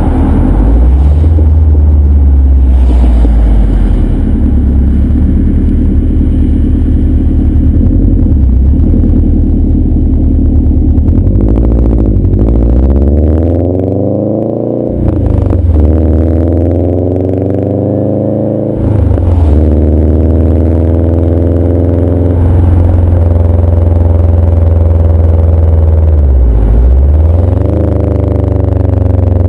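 2011 Subaru WRX's turbocharged 2.5-litre flat-four engine running loud through a CNT cat-back exhaust. Its note rises and falls several times as the revs climb and drop.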